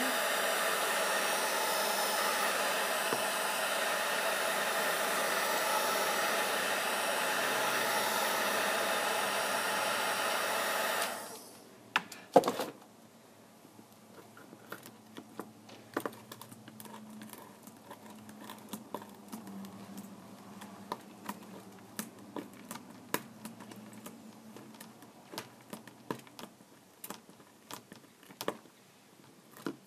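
A handheld electric blower runs steadily for about eleven seconds, then cuts off suddenly. Small scattered clicks and taps of tools and parts follow.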